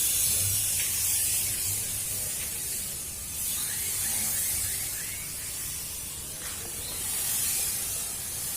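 Insecticide fogging machine running normally, a strong hiss of fog spray over a low hum, swelling and easing every couple of seconds.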